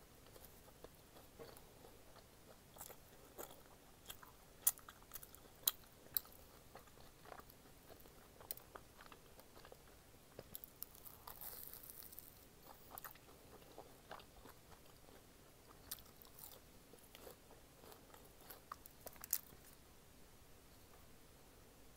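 Close-miked chewing and biting of a fried cheese ball with a seasoned crust and stretchy cheese filling: soft wet mouth sounds with scattered sharp clicks and crunches, a few louder ones about five seconds in and again near the end.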